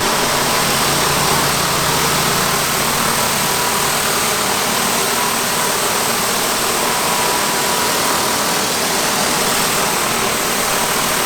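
A pressure-washing rig's engine running steadily under a loud, even hiss of water.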